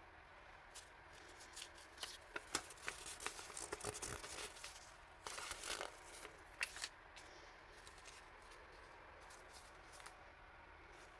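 Stationery packaging being handled and opened by hand: plastic and paper rustling and tearing, with a few sharp clicks, in a burst of activity from about two to seven seconds in.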